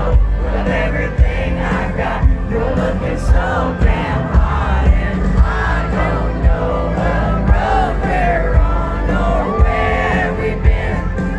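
Live country concert heard from the crowd, played loud: a band with a steady drum beat and a singing voice, with the crowd cheering and singing along.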